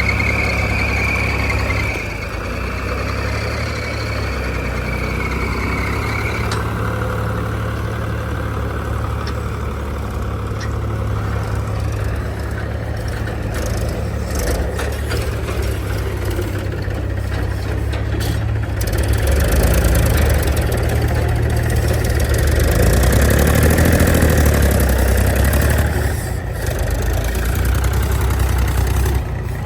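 Heavy diesel engine running steadily, getting louder for several seconds about two-thirds of the way in before easing back.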